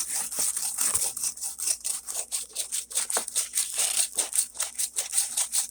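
Sandpaper on a sanding block rubbed back and forth over hardened Bondo glazing putty on a model train car roof: quick, even scratchy strokes, about four or five a second.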